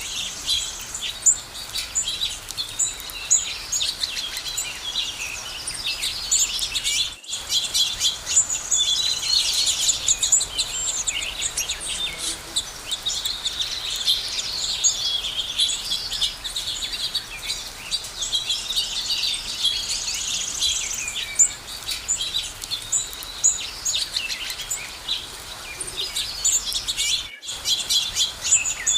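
Many small birds chirping and singing at once, a dense chorus of overlapping high chirps and trills, broken by two split-second gaps, about a quarter of the way in and near the end.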